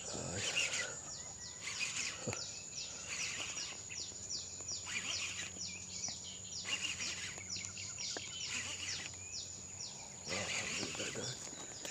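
A bird calling a long run of short descending chirps, about two or three a second, over a steady high-pitched insect drone, with a few faint handling knocks.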